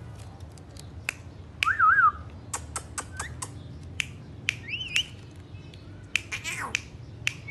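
Pet parrots making many sharp clicks and short squawks, with a warbling whistle about two seconds in and a rising chirp about five seconds in.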